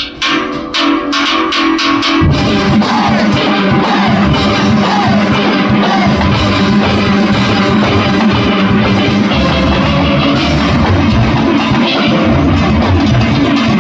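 Steel band playing: a short run of crisp, separately struck pan notes, then about two seconds in the full band comes in with bass pans and drum-kit percussion, playing loudly and steadily.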